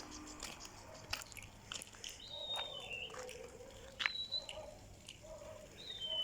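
Birds calling: a few short, high whistled notes, some sliding down in pitch, among scattered sharp clicks and taps.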